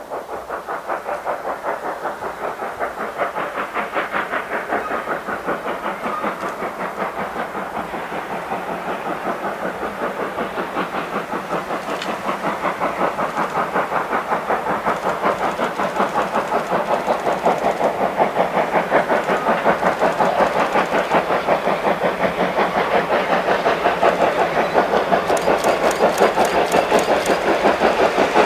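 Steam locomotive hauling the SL Yamaguchi train, its exhaust chuffing in a fast, even rhythm that grows gradually louder.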